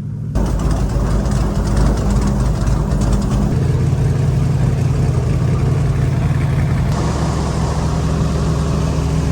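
Tour boat's engine running steadily. It gets suddenly louder just after the start as the throttle opens, with a slight change in its note about seven seconds in.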